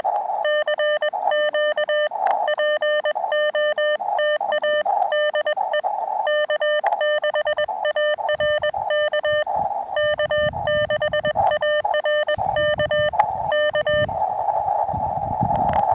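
Morse code (CW) sidetone from a portable HF transceiver: a single beeping tone keyed in quick dots and dashes, with receiver band noise hissing in the gaps between characters, calling on the 40-meter band. The keying stops near the end and only the band noise remains.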